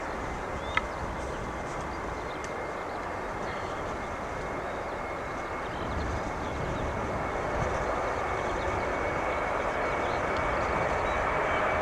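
Airbus A330-200 jet engines running: a steady high whine over a broad rush that grows gradually louder, with a brief sharp click about a second in.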